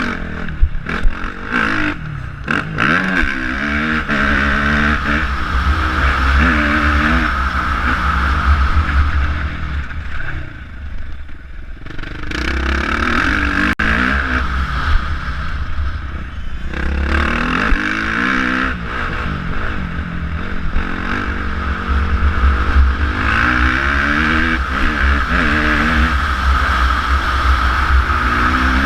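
Suzuki RM-Z450 motocross bike's single-cylinder four-stroke engine revving hard and falling back again and again as it is ridden round a track, with wind rushing over the mounted camera's microphone. The throttle shuts off briefly about ten seconds in and again a few seconds later, and a few sharp knocks come in the first seconds.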